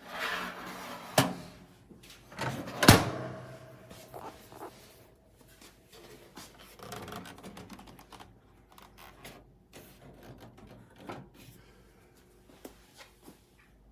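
Handling knocks and clunks. A sharp knock comes about a second in and a louder clunk near three seconds, followed by scattered light clicks and rustles.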